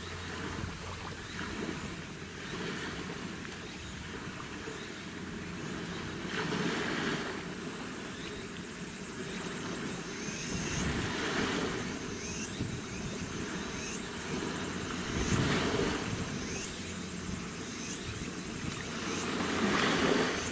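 Waves washing in, in surges a few seconds apart, over a low, steady hum of ship engines out on the water.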